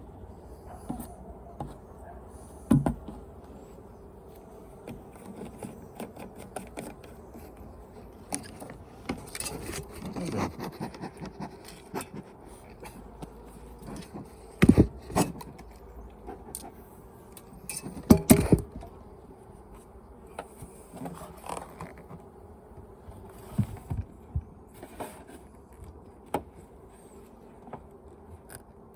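Beehive being worked by hand: wooden hive parts and tools knocking and scraping, with a few sharp knocks standing out, over a steady hum of honeybees.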